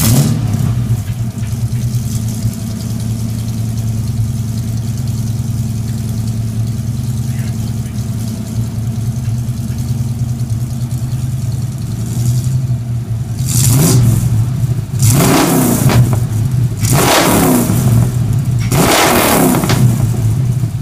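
1966 Mustang's fuel-injected Ford 5.0 V8 running through long-tube headers and true dual exhaust into Magnaflow mufflers. It idles steadily, then from about two-thirds of the way in it is revved four times, each rev rising and falling back to idle.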